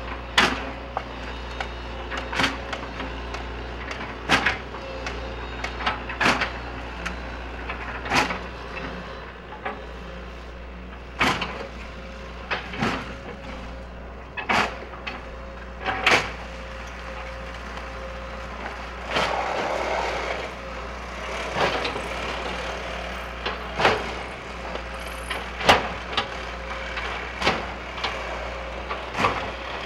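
Excavator demolishing a wood-frame building: its diesel engine runs steadily under repeated sharp cracks and knocks of breaking timber and falling debris, with a longer spell of crumbling rubble about two-thirds of the way through.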